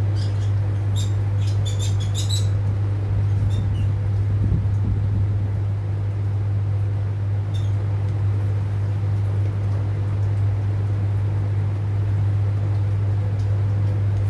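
A few short, high lovebird chirps, clustered in the first couple of seconds and once more about seven seconds in, over a steady low hum.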